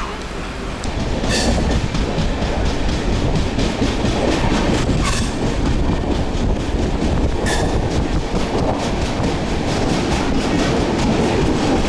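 Passenger train running on the rails, heard from on board: a steady rumble with the clickety-clack of the wheels over rail joints, and three louder clacks.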